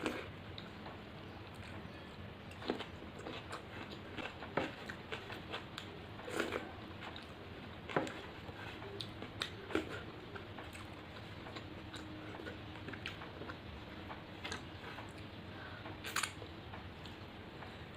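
A person chewing a mouthful of rice and fish curry, with scattered short wet clicks and smacks, busiest in the first half and sparser after about ten seconds.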